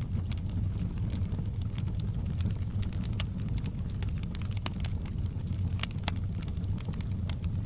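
Wood fire crackling in a fireplace: sharp pops and snaps at irregular moments over a steady low rumble of the flames.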